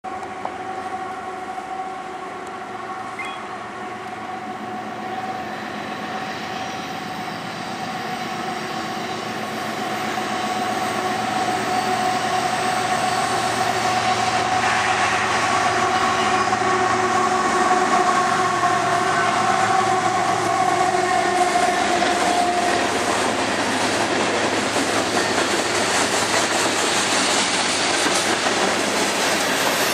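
Freight train led by two GE ES44AC diesel locomotives approaching and passing, getting louder about a third of the way in, with a steady whine that fades out about three-quarters through. The loaded freight cars then roll by with clattering wheels on the rails.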